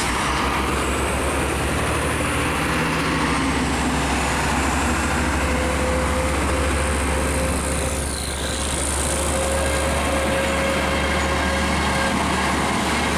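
Heavy trucks' diesel engines running with a steady low drone as a queue of trucks starts moving again in heavy traffic. A falling whine passes about eight seconds in.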